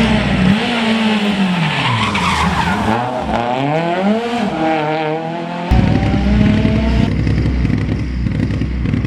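Rally car engine revving hard, its pitch rising and dropping several times with the gear changes as it drives past, then fading away after about seven seconds. A low rumble drops out about half a second in and returns sharply a bit over halfway through.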